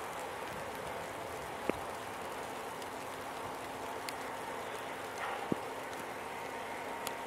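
Steady rain hiss with a few sharp drips or ticks, and a faint steady hum underneath.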